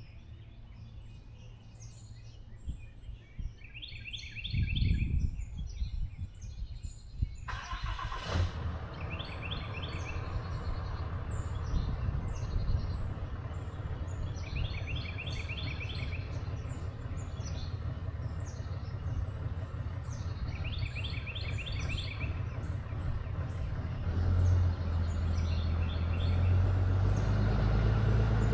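A songbird sings the same short phrase over and over. About five seconds in there is a low thump, and about eight seconds in a pickup truck's engine starts and runs steadily, getting louder near the end as it pulls away.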